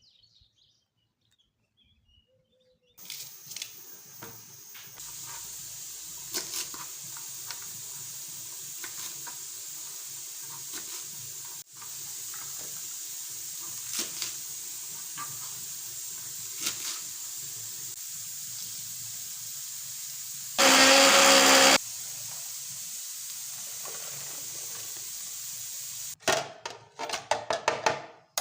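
Kitchen cooking sounds: a steady hiss with scattered light clicks and knocks of utensils. An electric blender runs for about a second about 21 seconds in, and there is a quick run of clattering knocks near the end.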